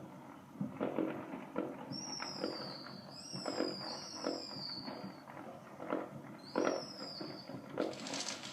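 Neighbourhood fireworks going off: a scattered run of sharp pops and bangs, with several high whistles falling in pitch between about two and seven seconds in.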